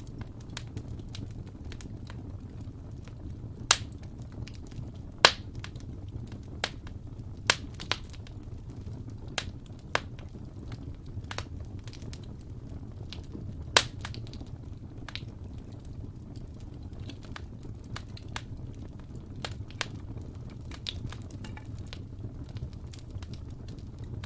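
Wood fire burning in a fireplace: a low, steady rumble of flames with scattered crackles and a few sharp, loud pops.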